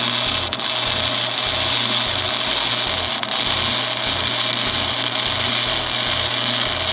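Flux-core MIG welding with a small Harbor Freight dual MIG welder run without shielding gas, laying a bead on steel exhaust parts: a steady, unbroken hiss.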